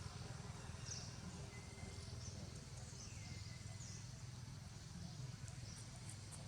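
Faint outdoor ambience: a steady low background rumble with a few short, high chirps from an animal about one, two and three seconds in.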